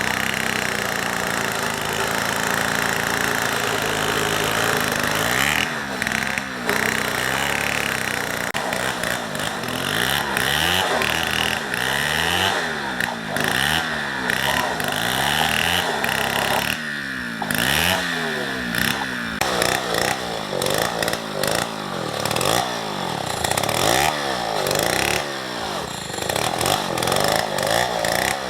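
Two-stroke chainsaw running at a steady pitch, then from about five seconds in revved up and down over and over, roughly once a second.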